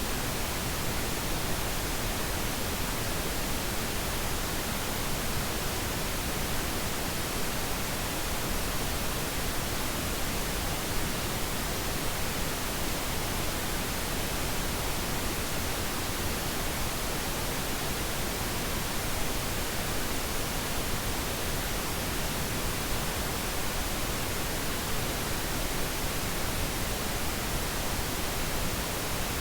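Steady synthetic pink noise: an even, unchanging hiss spread across all pitches, with no breaks or events.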